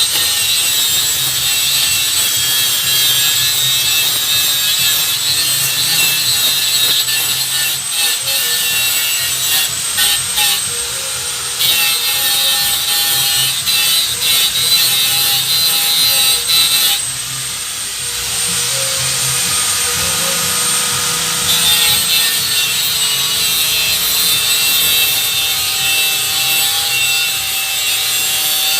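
Power tool cutting, running steadily with a high whine over a rough grinding hiss, easing off briefly about two-thirds of the way through.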